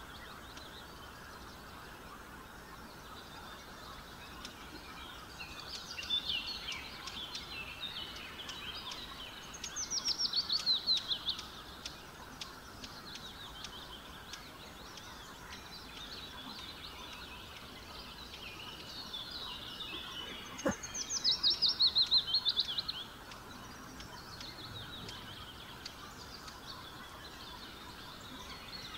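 Small bird singing: a fast run of high chirped notes, each falling in pitch, about ten seconds in and again about twenty-one seconds in, with softer twittering around six seconds in, over a steady low hiss.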